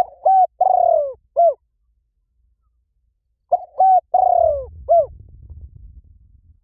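A dove cooing: two identical phrases about three and a half seconds apart, each two short coos, a longer falling coo, then a short coo.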